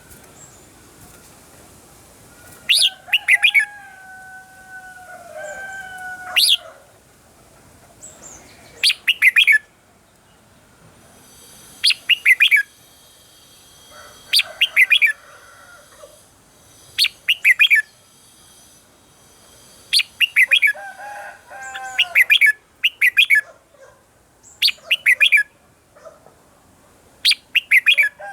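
Red-whiskered bulbul singing: short, loud bursts of rapid, sharp notes repeated every two to three seconds. A lower, drawn-out call sounds underneath twice.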